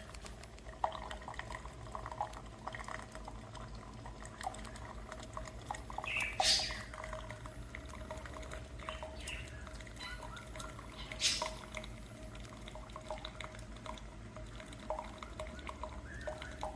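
Single-serve coffee maker brewing: a steady hum under continual dripping and sputtering of hot water into the cup, with two louder hissing spurts about six and eleven seconds in.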